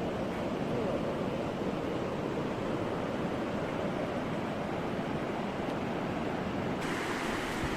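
Sea surf washing on a beach, a steady rush of waves that turns brighter and hissier about seven seconds in.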